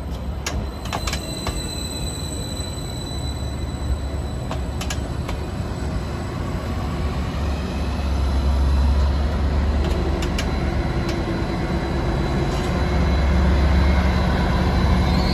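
Greater Anglia Class 755 bi-mode train running slowly past along the platform: a steady wheel-and-rail rumble with a few sharp clicks in the first seconds, growing louder as the coaches go by. From about ten seconds in a steady diesel engine hum joins it as the power car with its grilles passes.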